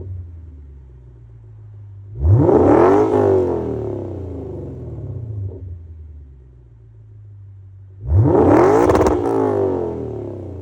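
Lexus IS500's V8 through an RR Racing valved exhaust, idling and revved twice, about six seconds apart. Each rev climbs quickly, then the engine falls back to idle.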